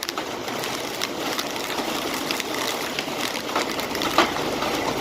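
Heavy rain falling steadily: a dense hiss with many sharp drop impacts, one a little louder near the end.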